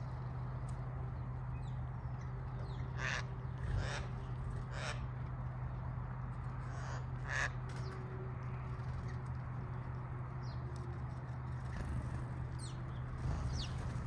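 Small birds feeding at a pile of rice give a handful of short, harsh, rasping calls between about three and eight seconds in, then a few faint high chirps near the end. A steady low hum runs underneath.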